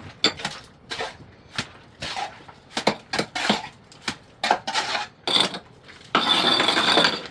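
Metal mason's trowel working cement mortar on stone: a string of irregular sharp clinks and taps, then a scrape lasting about a second near the end.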